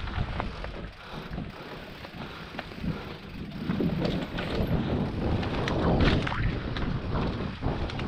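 Mountain bike rolling down a rough dirt trail: wind rushes over the microphone, with tyre noise and scattered rattling clicks from the bike.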